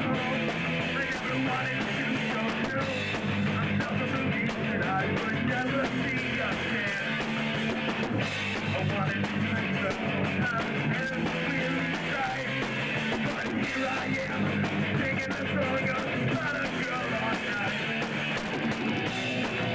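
Punk rock band playing live: guitars and drums going steadily without a break.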